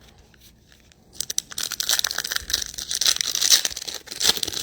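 A trading card pack's wrapper being torn open and crinkled by hand, a dense crackling rustle starting about a second in.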